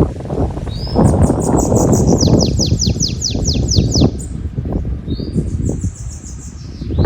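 Belgian canary singing: short rising notes, then a fast trill of quick downward-sweeping notes, and later a brief high phrase. Wind buffets the microphone underneath as a gusty low rumble.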